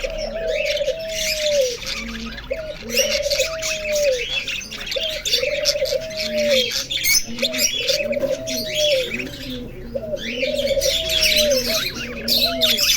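A dove cooing, a low call that falls at its end and repeats about once a second, over many small birds chirping busily.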